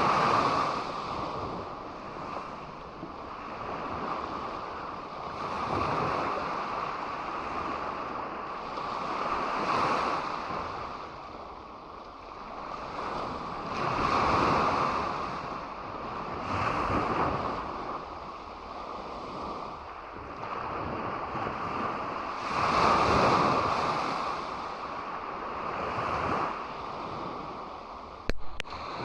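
Waves breaking and washing up on a beach, surging every three to four seconds over a steady background hiss. A brief sharp click or knock sounds near the end.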